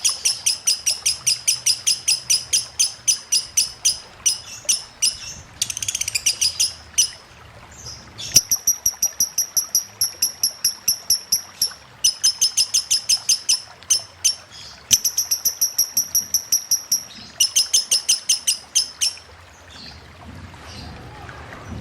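Lovebird chattering in long runs of rapid, evenly spaced high chirps, about five a second, with short breaks between runs. The chirping stops near the end, leaving faint running water.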